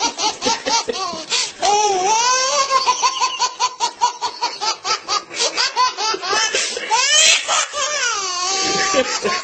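A young child laughing hard in quick repeated bursts, with a couple of longer drawn-out high cries about two seconds in and near the end.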